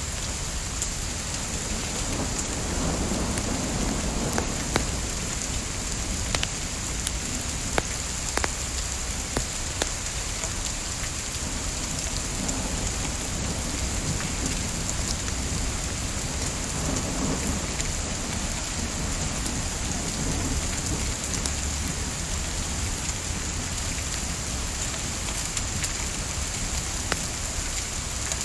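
Steady rain hissing, with a wood fire crackling through it: scattered sharp pops and snaps of burning wood, and a soft low rumble now and then.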